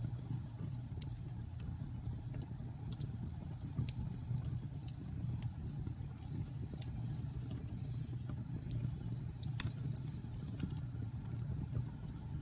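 Wood bonfire crackling, with sharp pops at irregular intervals, the loudest about ten seconds in, over a steady low rumble.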